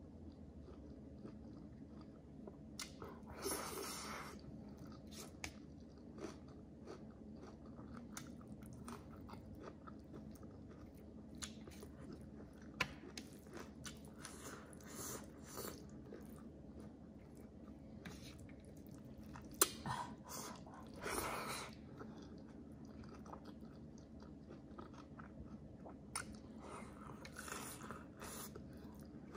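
A person eating: chewing and biting food close to the microphone, with crunches and small clicks throughout and a few louder bursts of chewing. The loudest sound is a single sharp click a little past the middle.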